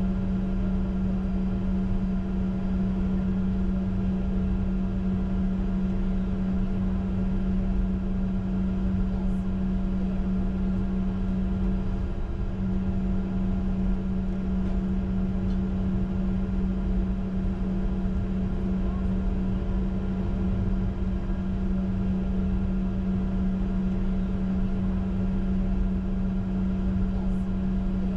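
Steady cockpit noise of a Bombardier Challenger 605 taxiing with its two GE CF34-3B turbofans at idle: a constant hum with a low rumble beneath.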